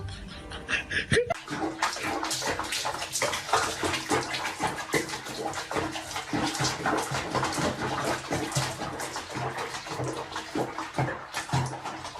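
Water splashing and running, as in a bath, with irregular sloshes and splashes.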